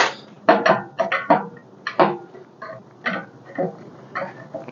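Irregular metallic knocks and creaks, about ten in a few seconds, as an engine hoist lowers a pulled V8 engine and transmission toward the floor.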